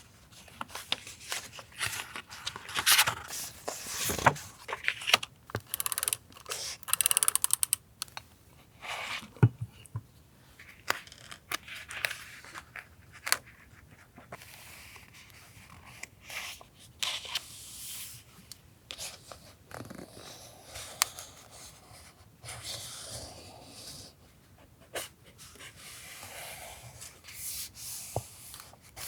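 Paper being handled for collage journaling: rustling, tearing and scraping of paper, with small sharp taps and clicks scattered throughout.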